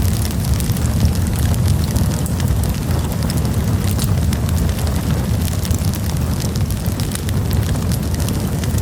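Campfire burning with a steady low rumble of flame and frequent sharp crackles and pops of burning wood.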